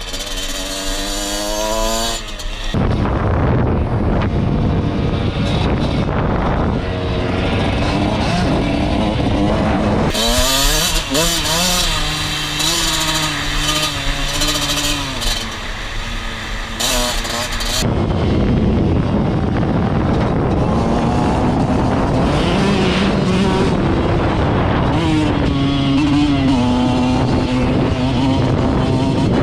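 Dirt bike engine running under way, its pitch rising and falling as the throttle is worked. The sound changes abruptly about ten seconds in and again near eighteen seconds.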